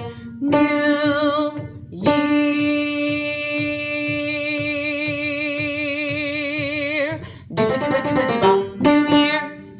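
The closing bars of a song: a singer holds one long final note with vibrato for about five seconds over a rhythmic plucked-string accompaniment, followed by a few short closing notes.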